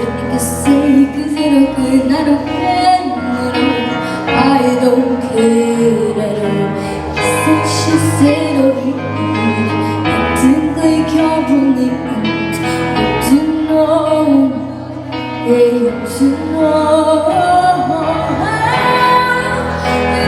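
A girl singing a pop song over a loud backing track, her voice gliding between held notes.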